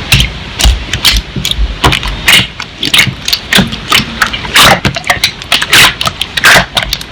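Slime being squished and pressed by hand, giving loud, irregular, close-up pops and crackles, several a second.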